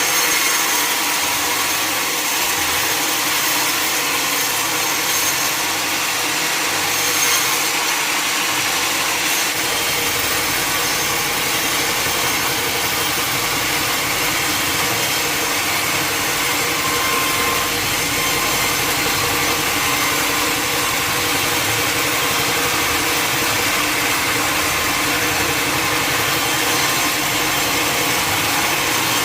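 Sawmill saw running steadily as it cuts through wood, a loud even noise. A low rumble joins about ten seconds in.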